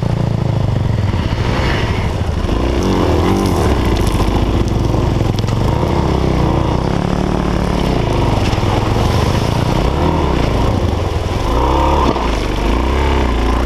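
Single-cylinder enduro motorcycle engine running under the rider, its revs rising and falling again and again as the throttle is worked over stones and through a shallow stream.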